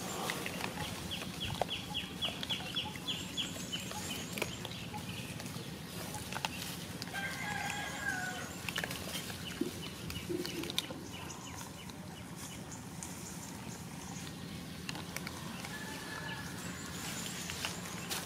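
Outdoor ambience with birds calling: a quick run of high, even ticks near the start and a drawn-out pitched call about eight seconds in, over a steady low hum.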